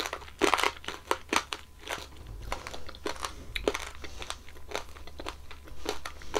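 Chewing strawberry tanghulu, its hard candied-sugar shell crackling and crunching between the teeth. A quick run of crunches comes in the first couple of seconds, then slower, scattered crunches.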